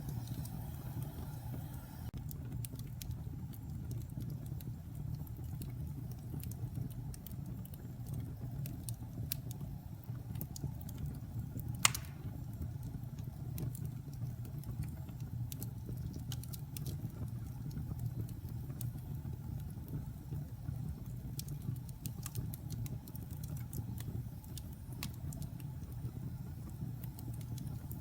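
Wood fire burning in a fireplace: a steady low rumble of flames with scattered small crackles and one loud pop about twelve seconds in.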